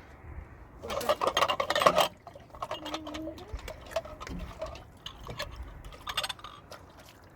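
A splashing, pouring liquid sound with dense clicks lasts about a second, starting about a second in. Scattered light clicks and knocks follow.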